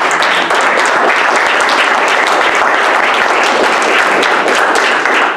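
Audience applauding steadily, welcoming a speaker to the lectern.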